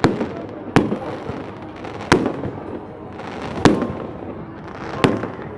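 Fireworks exploding overhead: five sharp bangs at uneven intervals, with rumble and crackle between them.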